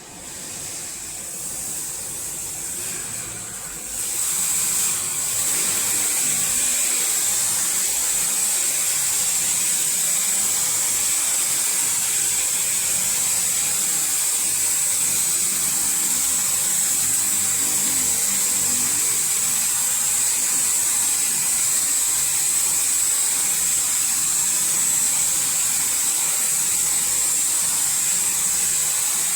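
Robotic car wash spraying water, a steady hissing spray that builds and steps up about four seconds in, then holds.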